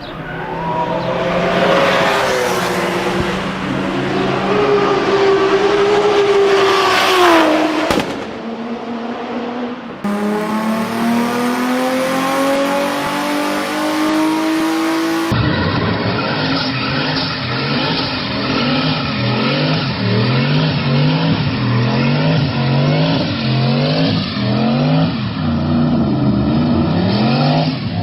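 BMW E30 M3 four-cylinder engines at high revs during burnouts, with tyres squealing, in several short clips cut together. About a third of the way in the engine climbs steadily in pitch. In the last half it is revved up and dropped again and again, about once a second.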